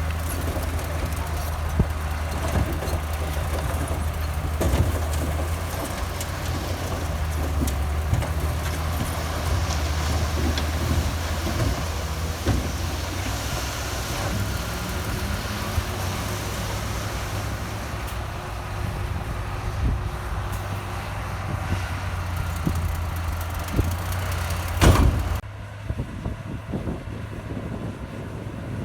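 Heavy diesel earthmoving machinery running steadily with a low engine drone, among scattered clanks and knocks. About 25 s in there is one loud knock, after which the sound becomes quieter and duller.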